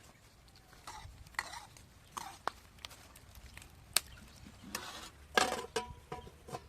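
Utensils stirring and scraping in a cooking pot, with scattered sharp clinks.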